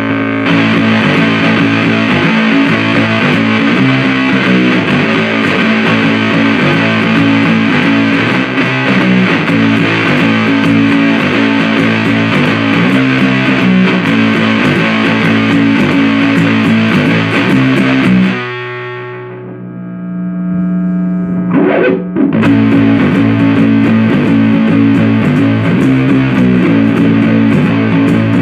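Electric guitar played through a 77 Fuzz Blender fuzz pedal, riffing heavily with thick distortion. About two-thirds of the way in the riff drops to a single held note that fades, then the riffing starts again.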